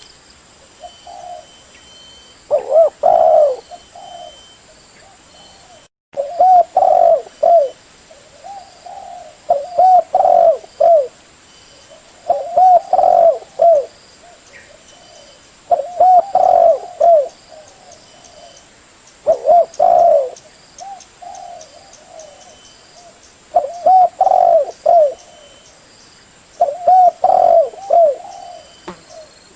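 Spotted dove cooing: a loud phrase of several coos repeating every three to four seconds, with softer coos in between.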